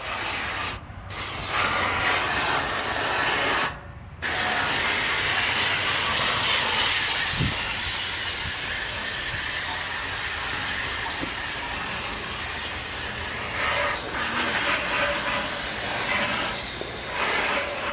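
Water spraying from a hose nozzle onto an air-conditioner condenser's coils, rinsing the soap and dirt out. A steady hiss that cuts out briefly twice, about a second in and again about four seconds in.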